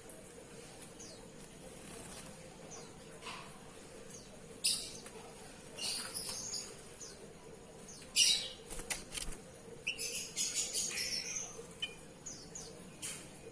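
Oriental magpie-robin (kacer) at its bath, fluttering its wings in short bursts, the loudest about 8 seconds in and a quick run of them a couple of seconds later, with faint short falling chirps between.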